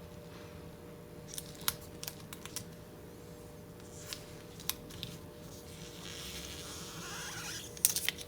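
Sharp clicks and taps of hand tools on a laptop LCD panel during polarizer film replacement, then a soft scraping rustle lasting over a second about six seconds in, and a cluster of louder clicks near the end.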